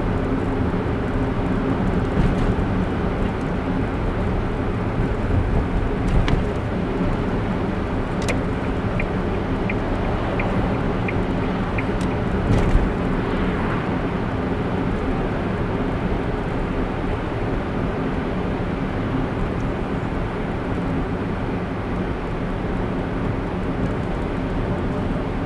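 A car driving along at steady speed, with a continuous hum of road and engine noise. About eight seconds in there is a short run of about seven light, evenly spaced clicks, roughly two a second. A couple of faint knocks come a few seconds apart.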